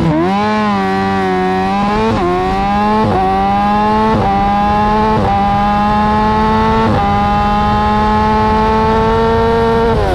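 Sport motorcycle engine accelerating hard through the gears: the pitch climbs, then drops sharply at each of about five quick up-shifts about a second apart. It holds the last gear longer before the throttle closes near the end.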